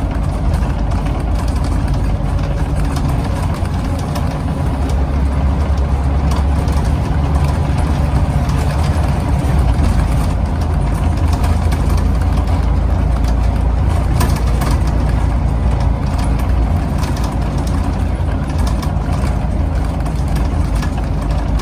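Scania CN94UB OmniCity bus engine running steadily at low revs, heard from on board as a deep rumble, with faint rattles from the bus body.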